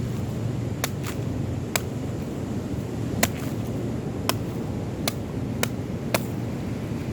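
Young green coconut being cut open with a blade: about eight short, sharp strikes at an uneven pace. A steady low rumble of surf and wind runs beneath.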